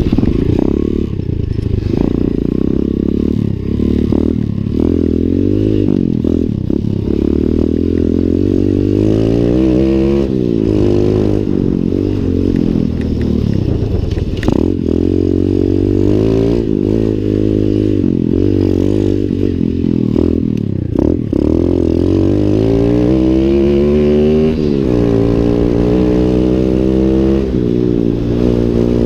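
Lifan 125 cc pit bike's single-cylinder four-stroke engine under way, its revs rising and falling again and again as it accelerates and backs off, with a few short knocks and clatters.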